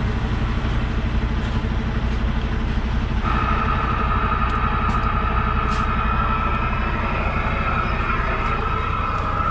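Semi truck's diesel engine running steadily, heard from inside the cab. About a third of the way in, a steady high hiss with a thin whine in it starts and continues: the truck radio coming on with static.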